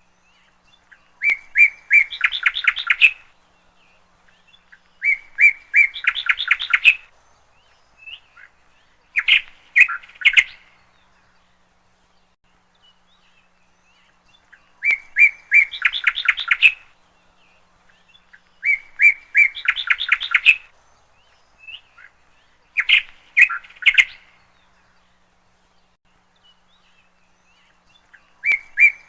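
A songbird singing six short, repeated phrases, each a few separate notes that run into a quick series of notes, with pauses of a few seconds between them.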